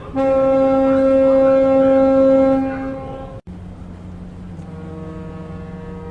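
Ship's horn sounding one loud, steady blast of about two and a half seconds that fades out. After a sudden break a second, quieter and lower-pitched horn tone comes in and holds steady.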